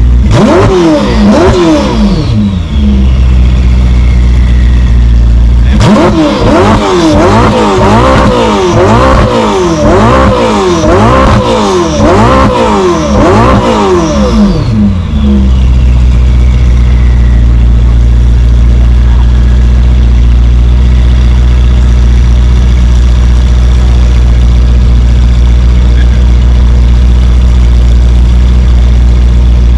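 An exotic car's engine revved over and over, its pitch climbing and falling back about once a second: a couple of blips near the start, then a run of about nine from around six seconds in. It then settles to a steady idle.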